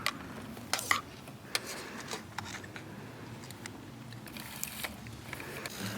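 A handful of light, irregular clicks and soft rustling against a quiet hiss: small objects being handled at close range.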